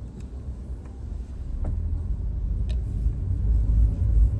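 Car's low engine and road rumble heard from the driver's seat, growing louder from about a second and a half in as the car moves off, with a couple of faint clicks.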